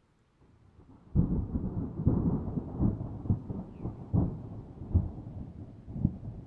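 A peal of thunder: a faint rumble grows out of near quiet, then about a second in it breaks into a loud, crackling roll that rumbles on with repeated sharp peaks.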